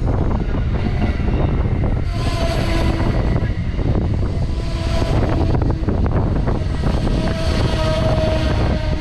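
Train passing at close range: a loud, steady rail rumble full of rapid wheel clicks. Faint pitched tones sound over it three times, each for about a second.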